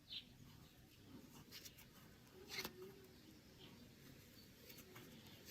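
Near silence with a few faint soft scratches of a crochet hook working yarn, the clearest one about two and a half seconds in.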